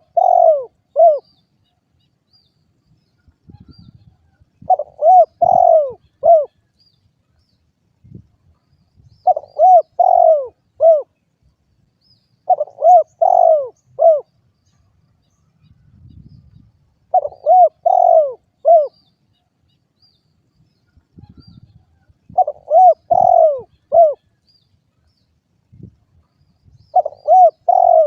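Derkuku dove cooing: a short phrase of several quick, falling coos, repeated about every four to five seconds.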